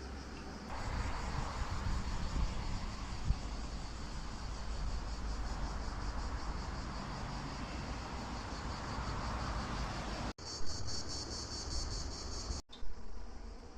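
Insects chirping in a fast, even pulse, over a low rumble. The sound drops out for an instant twice near the end.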